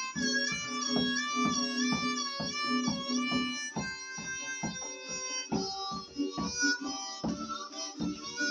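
Harmonica playing long, wavering notes over steadily strummed acoustic guitar chords, an instrumental break in a blues-punk song.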